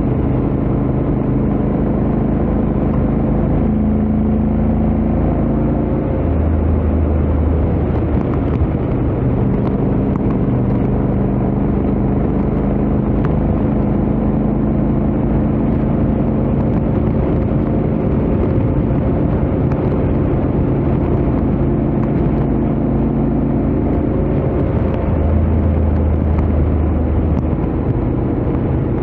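Honda X-ADV 750's parallel-twin engine and stock exhaust running steadily at highway speed, under a constant rush of road and wind noise. The engine note shifts a little in pitch as the rider holds speed.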